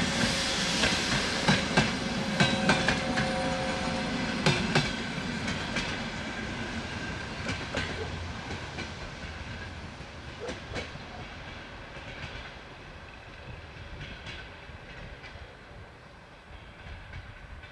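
Passenger train coaches rolling past and away, their wheels clattering over the rail joints. The clicks are loud and dense at first, then fade steadily as the last coach recedes.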